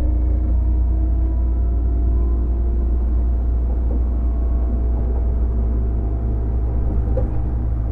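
Running sound inside a JR 205-series electric car fitted with MT61 externally fanned traction motors, heard while the train is under way. A steady deep rumble from the wheels and bogies dominates, with faint steady whine tones from the motors and gearing above it.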